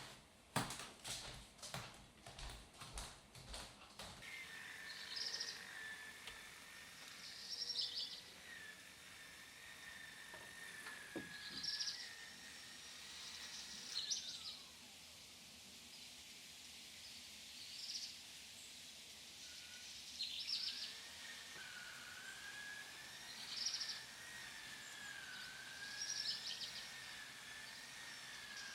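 Faint bird calls: short trilled chirps repeating every two to three seconds over a steady, slightly wavering high tone, after a quick run of clicks in the first few seconds.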